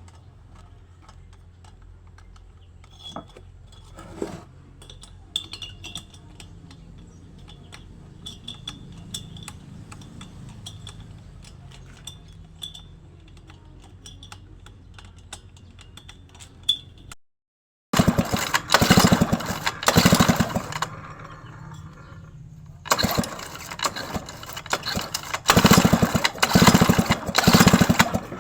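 Scattered light metallic clicks and clinks of hand work, then, after a brief cut, a small engine is cranked and runs in two loud stretches of rapid, even pulsing separated by a couple of seconds' pause.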